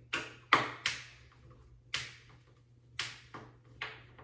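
Irregular sharp knocks and clicks, about seven in four seconds, from handling a flat-pack cabinet door and its hinges during assembly.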